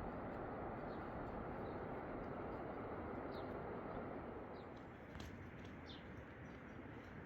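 Steady rush of flowing river water that eases a little about four and a half seconds in, with faint short bird chirps above it.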